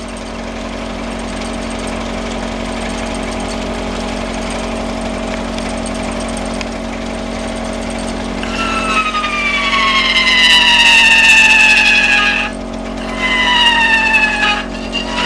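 Home-made four-cylinder double-acting alpha Stirling engine running with a steady hum. In the second half a whine slides slowly downward in pitch, stops briefly, then slides down again.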